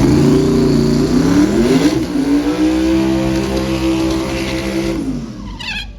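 Car engine accelerating hard: its pitch climbs at the start, climbs again about two seconds in, holds high, then drops away about five seconds in.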